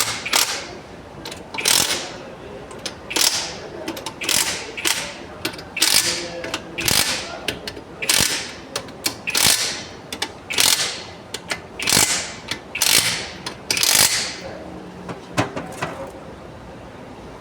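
Hand ratchet wrench turning bolts on an engine being reassembled: a run of quick ratcheting strokes, one about every second, with lighter clicks between them, petering out near the end.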